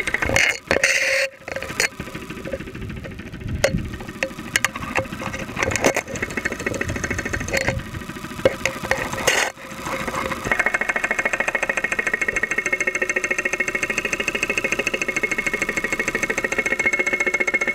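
2001 Saturn SL2's 1.9-litre four-cylinder engine running, heard close up through a stethoscope microphone, with a fast, even knocking: the loud noise it developed after being run with very low oil. A few sharp bumps break in during the first half, then it runs steadily.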